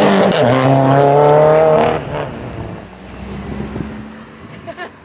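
A vehicle engine revved hard and held at high revs for about two seconds, then let off, falling back to a much quieter running.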